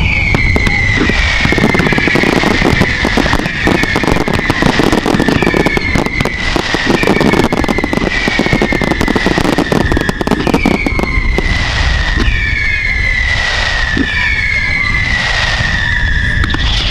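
A fireworks display firing a rapid run of whistling effects, about one a second, each whistle falling in pitch, over dense crackling and pops. A low rumble of wind on the microphone lies underneath.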